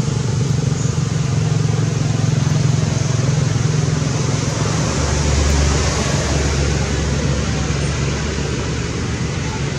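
Steady motor-vehicle engine noise with hiss; about five seconds in, a deeper engine rumble swells and then slowly fades.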